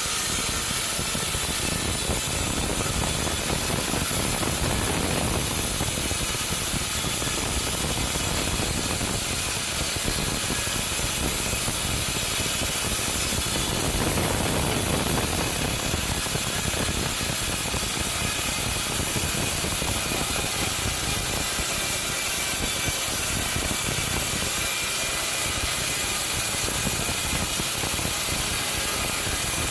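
Sawmill machinery running steadily, with a dense, rapid rattling and clicking over a continuous noise.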